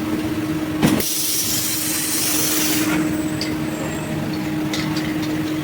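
Factory production-line machinery with a steady hum; about a second in a sharp knock, then a loud hiss of air for about two seconds, and a few light clicks near the end.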